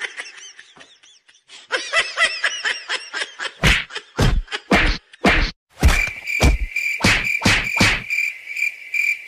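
Comic sound effects: quick rising-and-falling chirps and croak-like calls, then a run of about a dozen sharp whack-like hits, with a steady high chirping tone joining about six seconds in.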